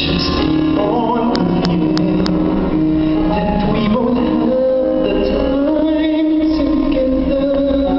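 Live band music with sustained held notes and some singing, no clear words; about a second and a half in, four quick sharp percussion strikes.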